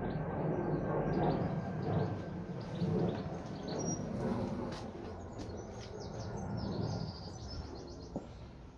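Small songbirds chirping, many short high chirps in quick runs, over a steady low rumble.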